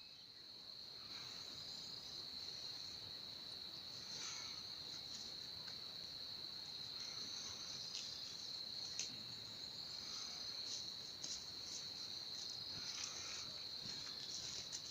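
Crickets chirping in a steady, high-pitched chorus, with a few faint scattered clicks and rustles.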